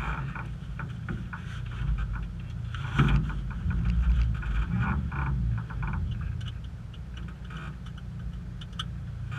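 Autocross car's engine idling, heard inside the stripped cabin, with a sharp knock about three seconds in and light clicks and rattles.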